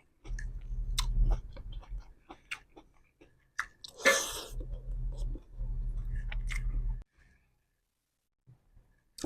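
Close-up chewing and eating with many small wet mouth clicks and a short noisy burst about four seconds in; it goes quiet about two seconds before the end.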